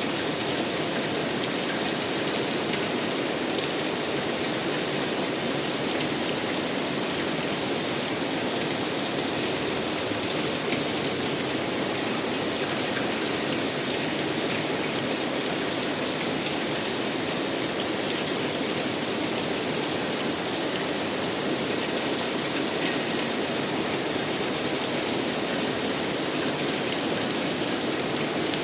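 Steady rainfall, an even hiss of rain on surfaces that does not let up.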